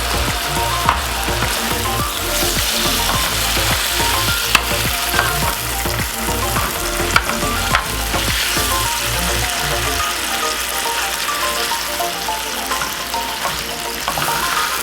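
Turkey ham slices frying in margarine in a pan, a steady sizzle, with a few sharp clicks of a utensil against the pan.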